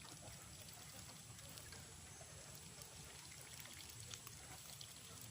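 Near silence: faint steady background noise with a few faint ticks.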